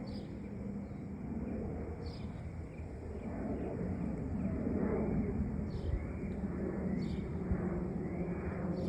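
Jet engines of a Boeing 767-300 freighter rumbling steadily as it passes low overhead, growing a little louder from about three seconds in.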